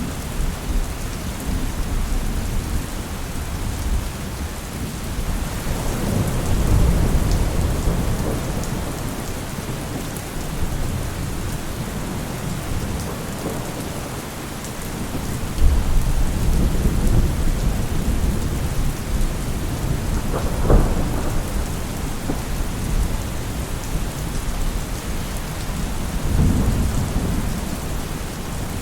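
Steady heavy rain with rolling thunder rising and fading several times in low rumbles, and one sharper clap about two-thirds of the way through.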